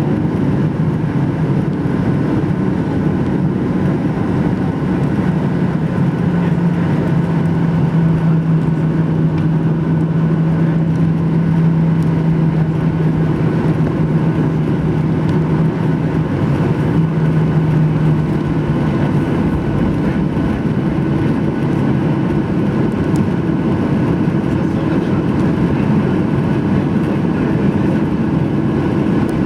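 Cabin noise inside a Boeing 737-800 on the ground: a steady hum of the jet engines at low power and the cabin air, with a low drone that holds for about twelve seconds through the middle and a slightly higher drone in the second half.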